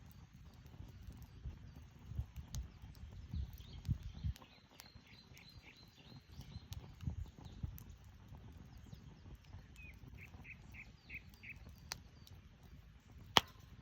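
Burning firewood crackling, with a low rustle and scattered sharp pops, the loudest just before the end. Birds chirp over it in short runs of quick repeated notes, one run about halfway through and a run of about six notes later on.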